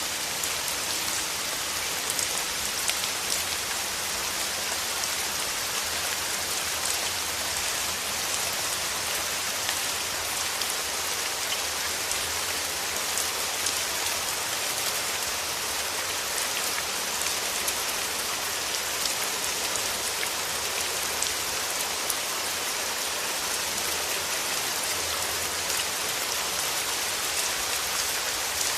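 Steady rain falling through forest trees, an even hiss with many small drop taps.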